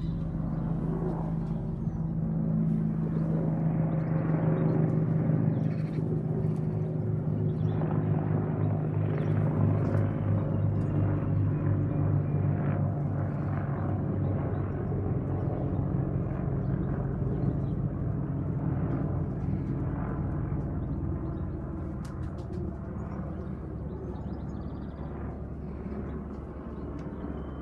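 A steady low engine drone that slowly fades toward the end.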